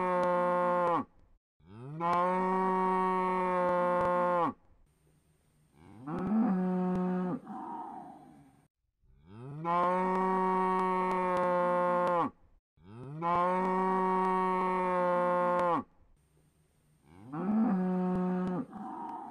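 A cow mooing over and over: long moos at a steady pitch, about two and a half seconds each, come in pairs, and each pair is followed by a shorter moo that jumps up in pitch and then trails off. The same sequence repeats about every ten seconds.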